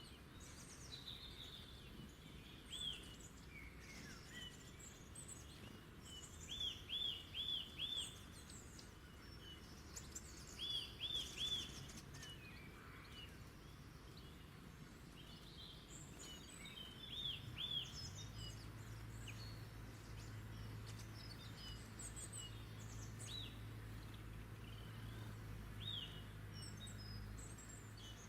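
Wild songbirds singing and calling over faint outdoor background noise. One bird repeats short runs of three or four quick arched notes, while others add scattered higher chirps. A steady low drone comes in about two-thirds of the way through.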